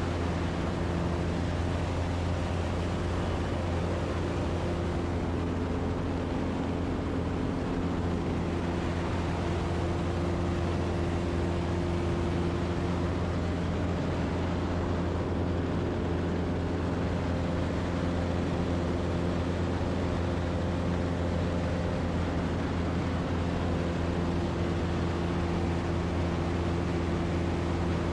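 Zenith STOL CH 750 Super Duty light aircraft's engine and propeller droning steadily in cruise flight, a constant low hum with a few steady tones over rushing air noise.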